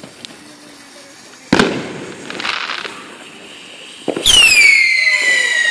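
Fireworks going off: a sharp bang about one and a half seconds in, followed by a crackling hiss, then a louder bang near four seconds that turns into a shrill whistle falling steadily in pitch.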